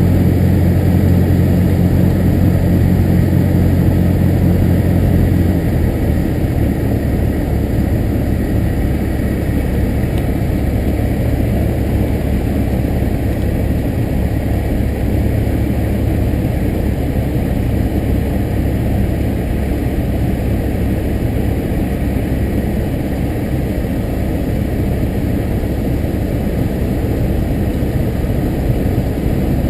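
Cessna 172's engine and propeller running steadily, heard inside the cabin. About five and a half seconds in, the clear steady engine note gives way to a lower, rougher, slightly quieter rumble.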